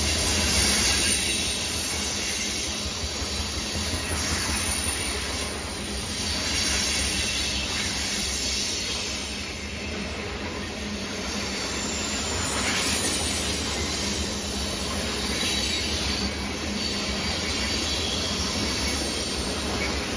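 Freight train tank cars rolling past at speed: a steady rumble of steel wheels on rail with a high squeal and hiss from the wheels.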